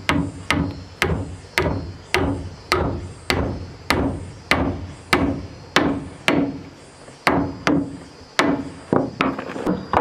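A hammer striking wood again and again, about two blows a second, each with a short ringing decay; the blows come faster near the end.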